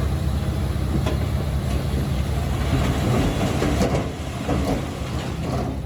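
Diesel engine of a Komatsu D21P crawler bulldozer running steadily under load, with rough clanking and grinding from its steel tracks and the rock it is pushing. It is loudest in the middle and eases off near the end.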